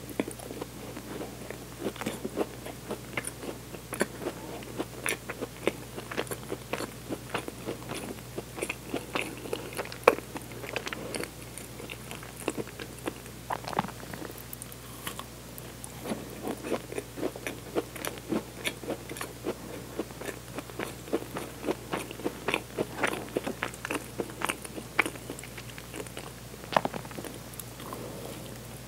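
Close-miked biting and chewing of a rich Hokkaido cheese tart, with many short, irregular wet mouth clicks and soft crunches of the crust.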